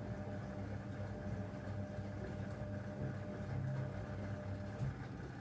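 Zanussi DL22 front-loading washing machine running during a 90 °C boil wash, giving a steady low mechanical hum with a faint higher whine that stops about five seconds in.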